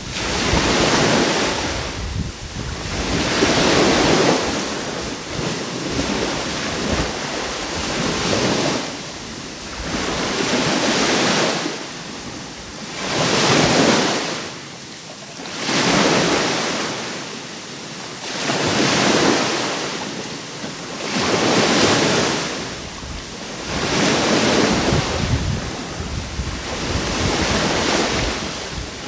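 Sea waves breaking and washing onto the shore, a rushing noise that swells and ebbs in a steady rhythm, a surge about every three seconds.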